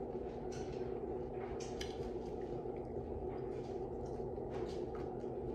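Close-up chewing of food: a scatter of short wet smacks and clicks from the mouth, over a steady low hum.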